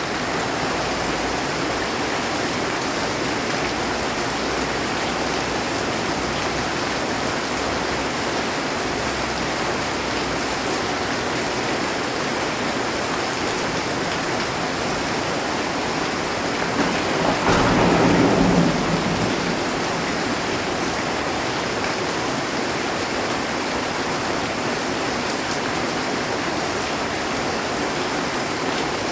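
Heavy rain falling on a metal roof, a steady dense hiss, with one rumble of thunder swelling up about two-thirds of the way through and fading within a couple of seconds.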